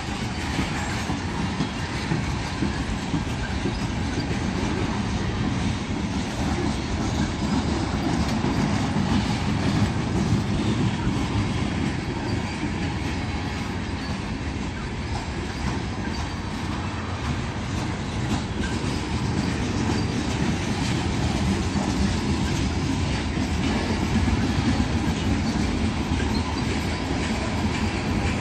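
A train rolling steadily past at trackside, its wheels clacking, with some wheel squeal.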